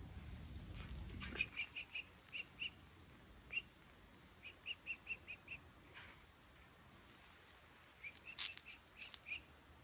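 Small bird chirping faintly: short high chirps in quick runs of three to five, with a sharp click about eight and a half seconds in. A low rumble underneath stops about a second and a half in.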